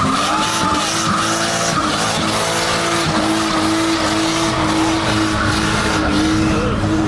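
A car's tires squealing steadily over its running engine, a continuous screech with no break.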